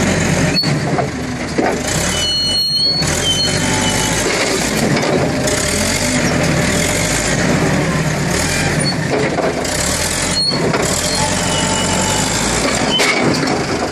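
Forklift engine running steadily while it is worked to split logs, with short high squeals about two to four seconds in and a few sharp knocks.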